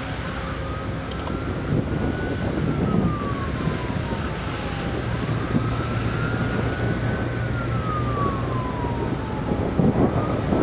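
A siren wailing: its single tone rises quickly, then falls slowly over a few seconds, twice, with a third rise starting near the end, over a steady rumble of traffic or engines.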